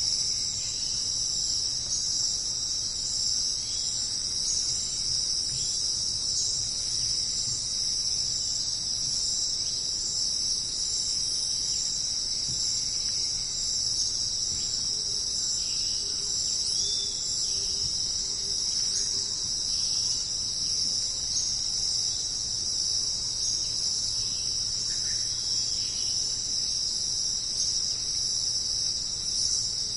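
Dense jungle insect chorus: a continuous high-pitched shrill trill that holds steady throughout, with a few faint short chirps scattered over it.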